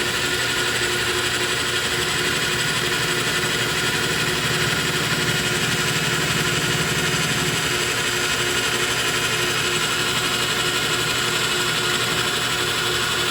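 Metal lathe running steadily while face milling a flat on a copper bolt, taking a further ten-thousandths-of-an-inch pass.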